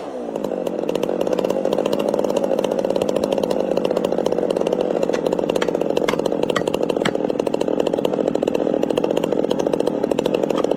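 Two-stroke chainsaw running with a steady engine note, held at an even pitch while it cuts into a tree trunk.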